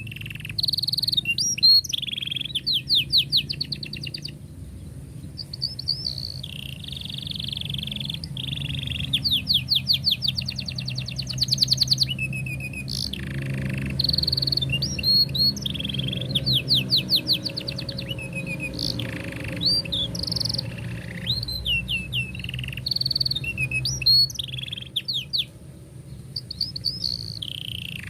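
Domestic canary singing a long, continuous song of fast rolling trills and short sweeping whistles, with only brief pauses. A steady low hum runs underneath.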